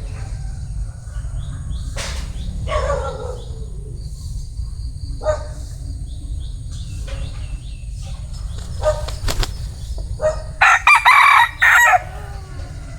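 Vietnamese bantam rooster crowing loudly once near the end, a crow broken into several parts, after a few shorter, quieter calls including a falling one a few seconds in. A steady low rumble sits under it throughout.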